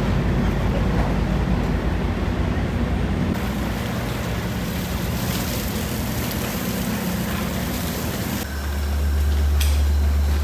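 Steady low engine hum with a hiss over it. The sound changes abruptly about three seconds in, and a louder, deeper hum sets in suddenly near the end.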